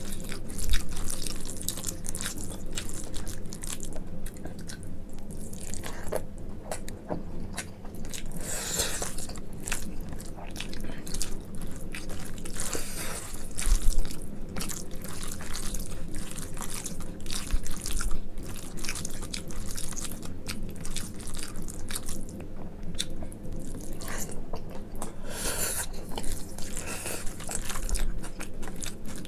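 Close-up wet chewing and mouth clicks of someone eating rice with dal and mashed eggplant (brinjal bhorta) by hand. The sticky food squishes as the hand mixes it on the plate.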